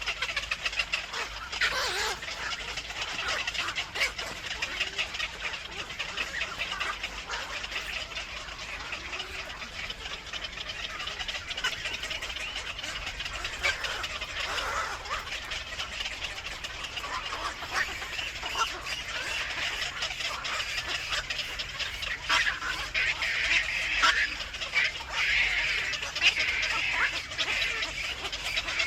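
Birds calling: a dense, continuous chatter of many short, high calls, growing busier in the last third.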